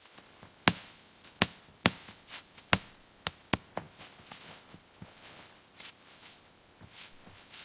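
A run of sharp knocks, about seven loud strikes at an uneven pace in the first three and a half seconds, then fainter scattered knocks.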